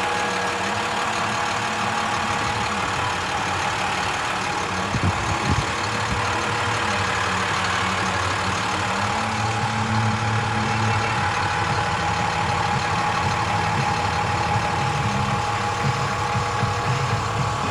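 A MaxxForce DT diesel engine in a utility truck runs steadily, with a steady high whine over it. A couple of short knocks come about five seconds in.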